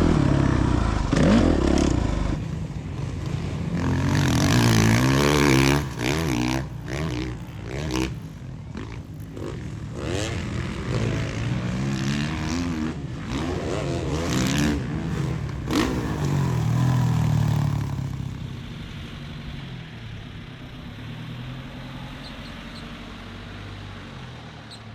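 Suzuki RM-Z450 four-stroke dirt bike engine revving up and down repeatedly as it is ridden around a motocross track, with a hiss of wind. It settles to a lower, steadier drone after about 18 seconds.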